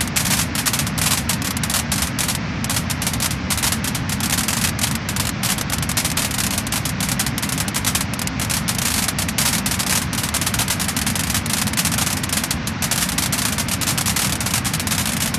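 Wood fire crackling and popping: a dense, continuous run of sharp crackles over a steady hiss and low rumble of the burning logs.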